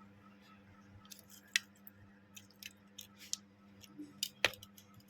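Small hand tools clicking and scraping against a smartphone during a screen repair: a string of sharp little clicks, the loudest about a second and a half in and again near the end, over a steady low hum.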